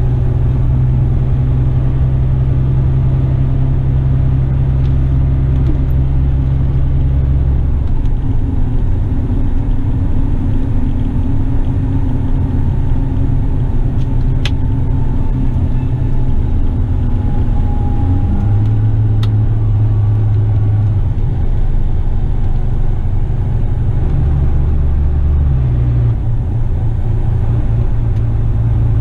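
Laden Western Star tipper truck's diesel engine running as the truck drives, heard from the cab, with the engine note stepping down and back up several times as it changes speed. Two short sharp clicks come about halfway through.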